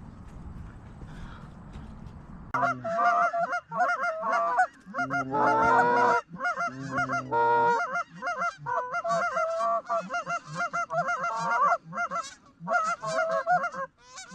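Geese honking: many loud, overlapping calls from a flock close by. They start abruptly about two and a half seconds in, after a low rumble of wind-like noise.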